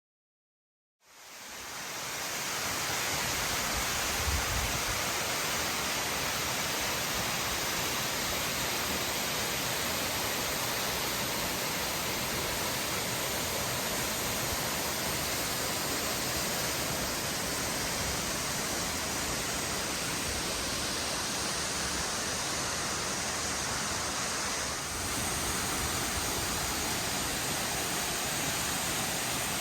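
Steady rushing roar of a 70-metre waterfall, the water crashing down without a break. It fades in about a second in and holds level, with a brief dip near the end.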